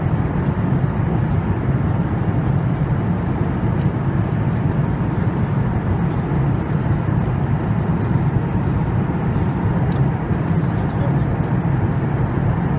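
Steady cabin noise of a Boeing 737 MAX 8 airliner: an even, low rumble of its CFM LEAP-1B engines and the airflow, heard from a window seat in the cabin.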